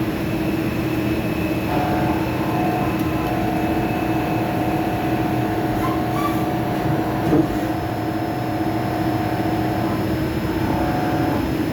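CNC lathe running: a steady machine hum with a higher tone that comes in about two seconds in, holds until near the end and then briefly returns. A short knock sounds about seven seconds in.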